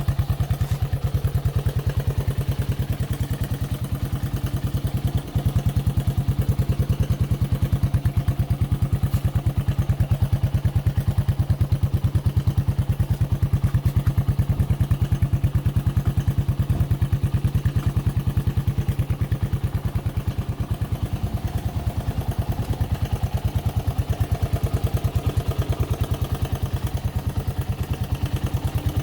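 1982 Honda XL125R's air-cooled single-cylinder four-stroke engine idling steadily, a fast even train of exhaust pulses, with one brief dip about five seconds in.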